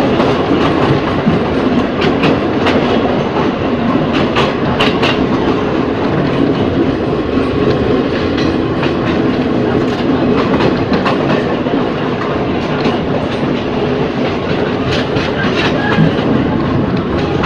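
Ex-JR 203 series electric multiple unit running at speed: a steady rumble of steel wheels on rail, with irregular clicks and clacks as the wheels cross rail joints, bunched in a few places.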